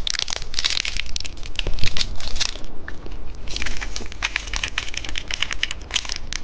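Popping candy being poured out of its packet into a small plastic candy container: a dense crackle of granules and the wrapper crinkling, easing off briefly about halfway through.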